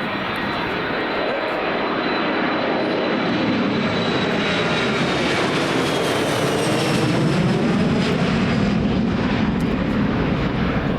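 Boeing 737-300's CFM56-3 turbofans at takeoff thrust as the jet lifts off and climbs past. A high whine slides down in pitch about halfway through, and the engine noise grows to its loudest near the end.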